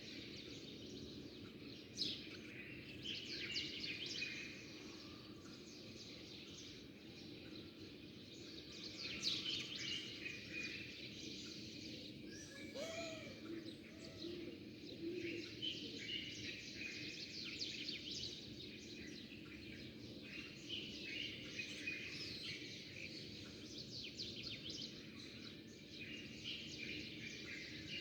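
Many small birds chirping and twittering at once in a continuous busy chatter of short high notes, over a steady low background hum.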